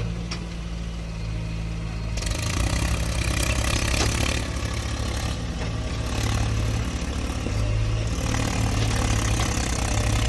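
Heavy diesel engine running steadily, growing louder and harsher from about two seconds in.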